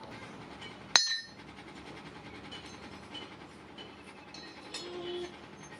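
A sharp metallic strike with a bright ringing tail about a second in, and a lighter ringing clink near the end, typical of steel being struck in a blacksmith's workshop, over a steady background hum.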